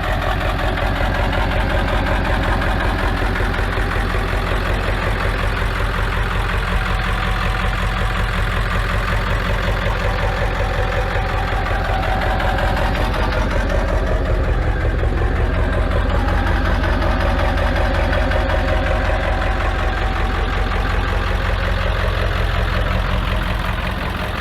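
An engine idling steadily, with an even low rhythm that does not change.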